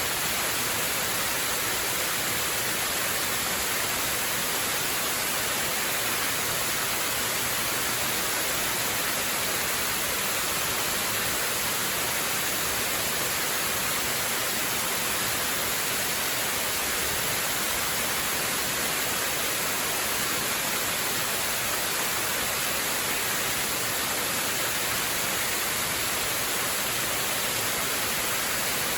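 Waterfall rushing as a steady, unbroken hiss, brightest in the upper range, with no change in level.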